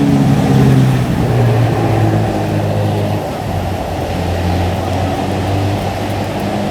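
A motor vehicle engine running, its pitch falling during the first second or so and then holding steady, over a dense rushing noise.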